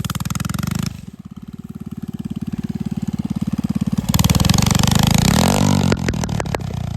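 Mini bike's small engine running under a rider: the throttle closes about a second in, opens up again around four seconds, and eases off just before the end, with a few sharp clicks around that point.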